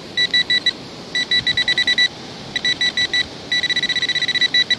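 XP Deus metal detector in its Deus Fast program beeping in rapid groups of short high tones, the beeps coming faster and almost continuous near the end as it pinpoints a shallow target, here a pound coin.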